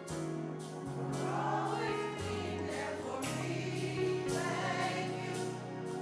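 Church choir singing a gospel song over instrumental accompaniment, with held bass notes that change every second or so.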